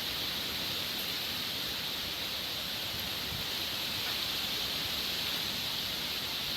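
Hurricane-force wind blowing through trees, a steady even hiss with no distinct gusts or impacts.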